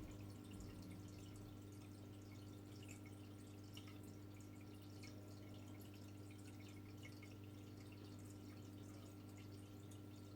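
Near silence: room tone with a steady low electrical-sounding hum and faint scattered ticks.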